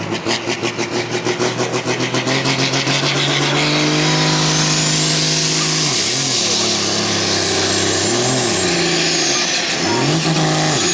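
Super Sport class pulling tractor's turbocharged diesel engine making a pull. It pulses unevenly at first, then runs up to a steady high-revving note about three and a half seconds in, with a high whistle rising over it. The revs dip briefly three times near the end.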